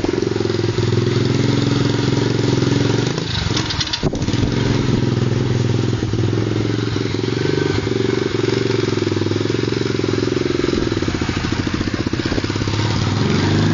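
Pit bike engine running steadily, its note dipping briefly with a sharp click about four seconds in.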